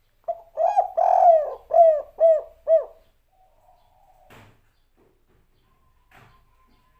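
Spotted dove (tekukur) singing one cooing phrase of the 'kuk 3' type: a long rolling coo followed by three short, separate 'kuk' coos, ending about three seconds in. Two faint clicks follow later.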